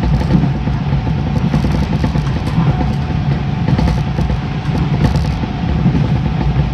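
JR East 583 series electric train running at a steady speed, heard from its lead car: a continuous rumble of wheels on rail, with a steady hum riding over it.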